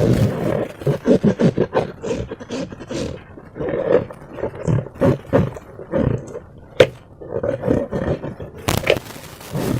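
Slime being squished and worked by hand, a run of irregular wet squelches, with one sharp snap about seven seconds in.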